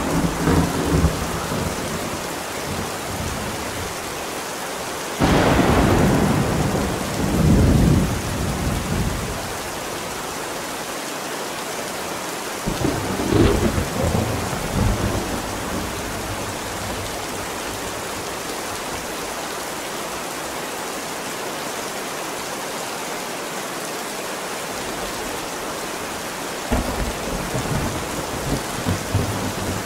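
Steady heavy rain with thunder rolling over it, mixed as 8D audio: a rumble dies away early on, a sudden clap about five seconds in rolls on for about four seconds, another rumble follows about thirteen seconds in, and a third begins near the end.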